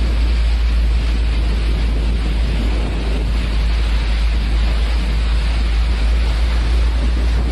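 Steady rushing noise of hurricane-force storm wind, with a deep constant rumble of wind buffeting the microphone.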